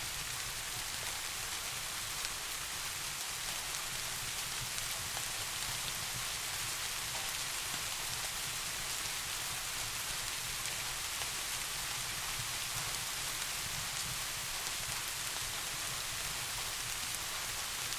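Steady rain falling, an even hiss with no breaks, over a constant low rumble.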